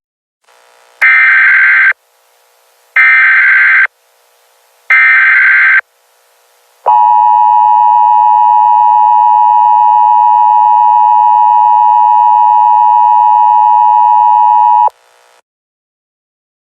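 Emergency Alert System broadcast tones: three one-second bursts of screeching SAME header data a second apart, then the steady two-tone attention signal held for about eight seconds and cut off. Together they mark the start of an emergency alert broadcast.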